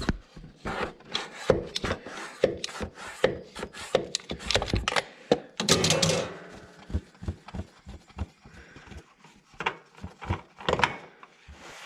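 Irregular clicks and knocks of an oil filter wrench and hands working a spin-on oil filter loose on a Kawasaki mower engine, with a longer rustle about six seconds in.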